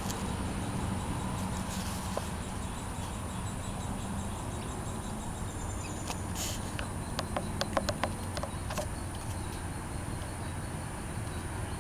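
Outdoor background with a steady low hum and a thin, steady high-pitched whine. About two-thirds of the way in comes a brief hiss, then a quick run of about six sharp clicks.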